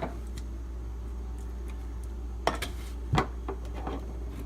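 A few light clinks and knocks of small hard objects being handled and set down on a work surface, about halfway through and again a little later, over a steady low hum.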